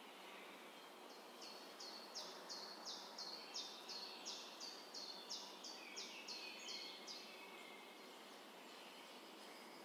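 A bird calling a fast run of about sixteen high, down-slurred notes, a little under three a second, starting about a second in and stopping about seven seconds in, over a faint steady outdoor hiss.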